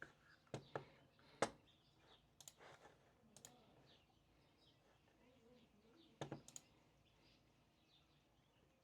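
Scattered light clicks and taps over near silence: a few single clicks in the first three and a half seconds, the loudest about a second and a half in, then a quick cluster of three or four just after six seconds.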